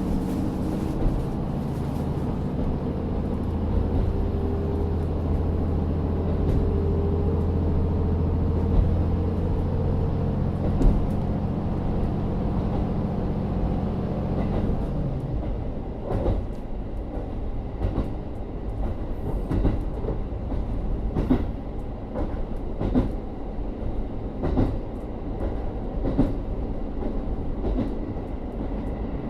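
Inside a KiHa 40 diesel railcar: its N-DMF13HZB diesel engine drones steadily under power. About halfway through the drone drops away as power comes off, leaving wheel clatter over rail joints, a sharp click every second or two.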